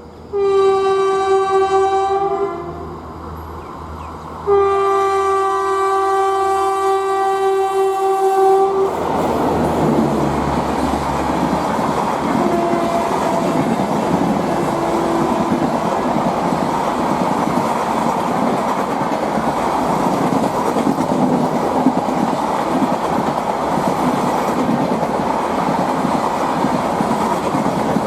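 Train horn sounding two single-pitched blasts, a short one and then a longer one, followed by the train passing at speed with a steady rumble and clatter of wheels on the rails.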